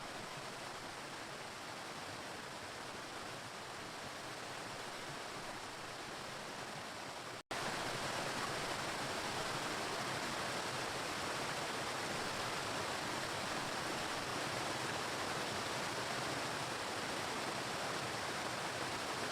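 Waterfall rushing steadily. About seven and a half seconds in it cuts out for an instant and returns louder.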